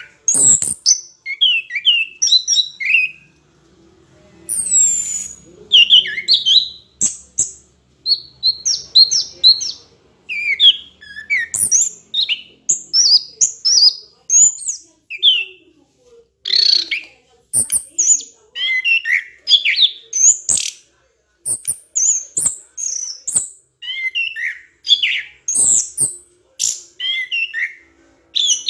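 A bird chirping and twittering almost without a break, in quick runs of short, high notes that rise and fall, with a few sharp clicks among them.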